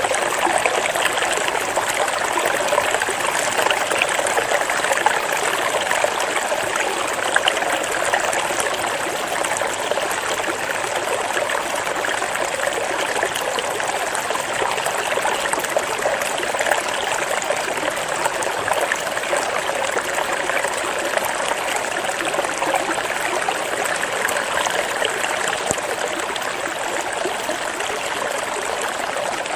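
Flowing water running steadily, like a small stream trickling over stones.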